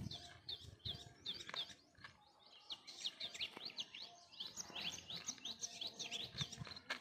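Small birds chirping, a rapid run of short high notes that grows busiest in the middle. A few soft footsteps in sandals on dry ground near the start and near the end.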